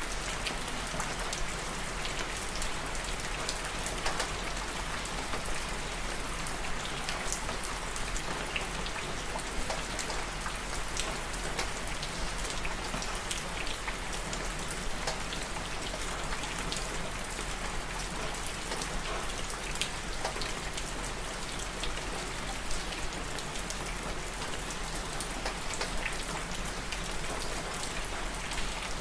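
Steady rain falling, with many individual drops ticking sharply on a surface over an even hiss, and a constant low hum underneath.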